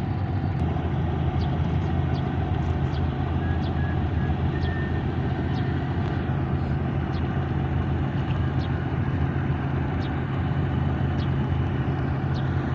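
Steady low drone of a car ferry's diesel engines running as it manoeuvres to berth, with a few faint ticks over it.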